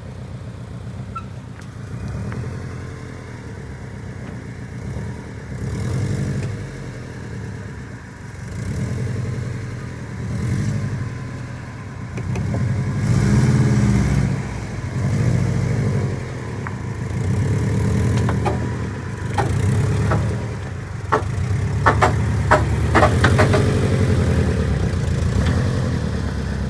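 A vehicle engine runs with the revs swelling and dropping several times. A short run of sharp clicks or knocks comes about 21 to 23 seconds in.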